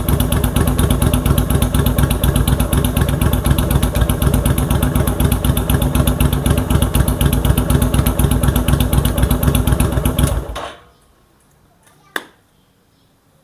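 Kaisar Ruby V250 motorcycle's V-twin engine idling through its newly modified exhaust with a steady, rapid pulsing beat, then switched off about ten and a half seconds in. A single sharp knock follows near the end.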